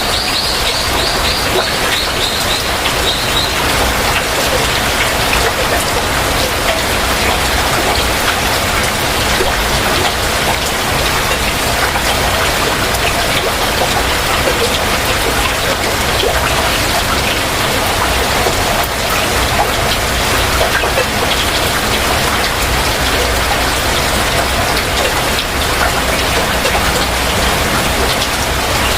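Heavy rain falling steadily, a dense even hiss of drops. In the first few seconds a bird calls over it with a quick series of repeated high notes that fade out.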